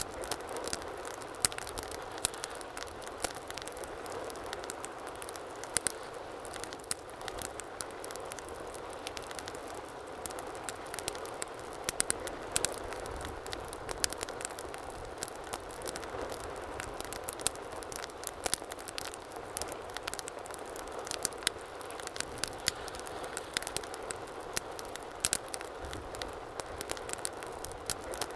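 Wood fire burning in a fireplace, crackling with frequent irregular sharp pops over a steady hiss of flames.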